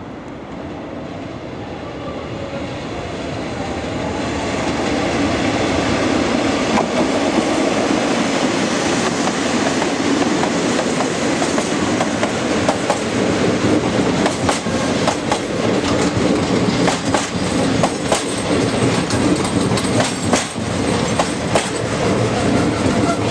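A DD51 diesel locomotive's engines grow louder as it approaches and passes slowly. The Twilight Express sleeping cars follow, their wheels clicking steadily over the rail joints.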